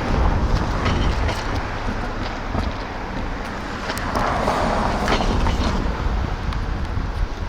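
Loaded freight train gondola cars rolling past with a steady rumble and scattered clicks from the wheels on the rails, mixed with wind noise on the microphone.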